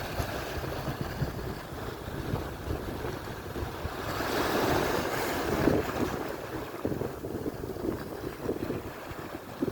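Atlantic surf washing in, with one wave surging up and hissing about halfway through, and wind buffeting the microphone.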